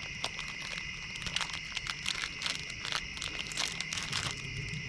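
Plastic packet of sliced cheese being handled and opened, crinkling in quick irregular rustles. A steady high insect drone runs underneath.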